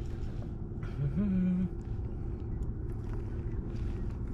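A boat's motor running at idle, a steady low rumble with a constant hum. About a second in, there is a short low hum, like a voice going "hmm".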